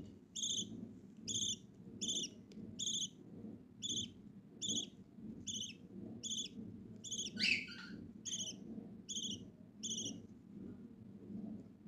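Budgerigar chick peeping: a run of short, high chirps at a steady pace, roughly one or two a second, with one louder call falling in pitch about seven and a half seconds in. The chirps stop about ten seconds in.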